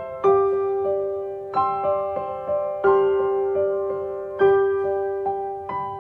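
Slow, gentle solo piano music: notes and soft chords struck every second or so, each ringing and fading before the next.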